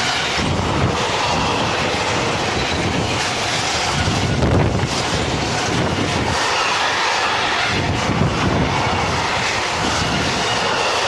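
Freight train of tank wagons rolling past close by: a loud, steady rumble and rush of steel wheels on rail, swelling and easing as the wagons go by.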